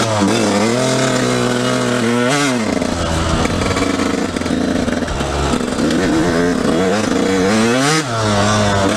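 Dirt bike engine running while ridden, its pitch rising and falling with the throttle, with a rev climbing about two seconds in and another near the end.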